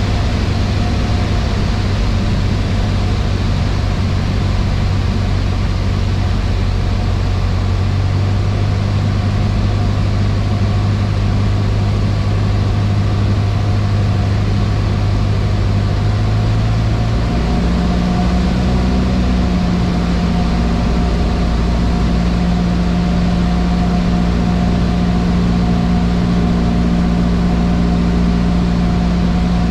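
Cessna 152's four-cylinder Lycoming engine and propeller droning steadily, heard inside the cockpit. A little over halfway through, the pitch of the drone shifts and then holds steady, as the engine speed changes with a power setting change.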